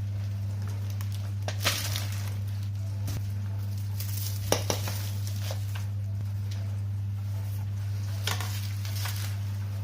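Plastic packaging rustling and parts of a vacuum cleaner clicking lightly as they are taken out of their box: a few short bursts spread through, over a steady low hum.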